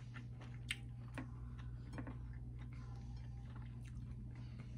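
Faint chewing of sticky rice and chicken, with a few soft mouth clicks and smacks over a low steady hum.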